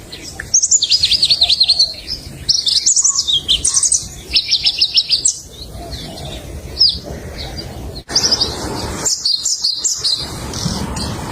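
Pallas's leaf warbler singing: a string of loud phrases, each a fast run of high, sharp notes, separated by short pauses.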